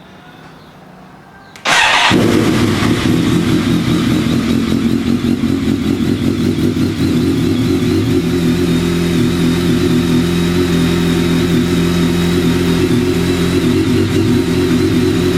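BMW K1200S inline-four motorcycle engine with a Two Brothers aftermarket exhaust, started with a short crank a couple of seconds in, then catching and idling steadily through the open pipe.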